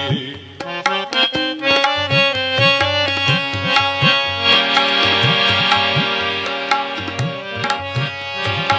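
Instrumental interlude of Indian devotional music: a harmonium plays a melody of held notes over a steady tabla rhythm, the bass drum's strokes sliding in pitch.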